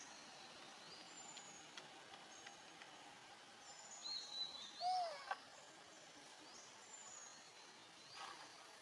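Faint birds chirping, with short high whistles and rising and falling chirps. About five seconds in comes a short arched call, the loudest sound, then a click.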